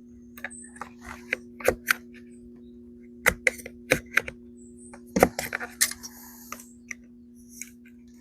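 Irregular sharp plastic clicks and taps as a chainsaw's old primer bulb is prised out of its clip-in mount, busiest around the middle. A steady low hum runs underneath.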